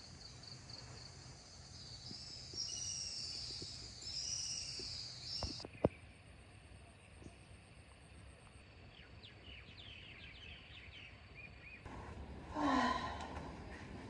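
Outdoor ambience with birds chirping in short arching calls, a few sharp clicks, and one louder brief sound near the end that falls in pitch.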